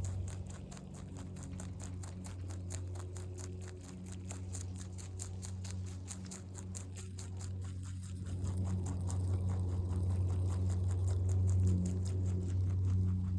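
Rabbit chewing clover: rapid, even crunching of the leaves, over a steady low hum.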